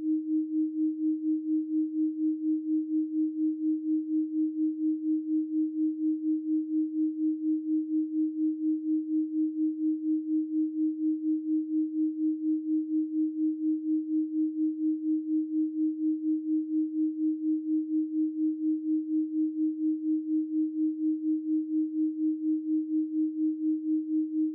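Steady electronic pure sine tone at about 312 Hz, held without a break and pulsing evenly in loudness about three to four times a second.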